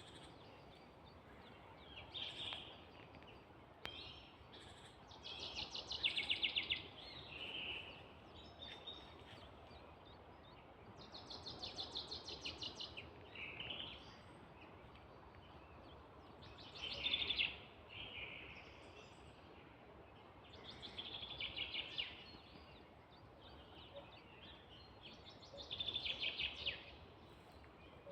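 Songbirds singing in woodland: one bird repeats a short, fast trilled song phrase about every four to five seconds, with softer calls in between.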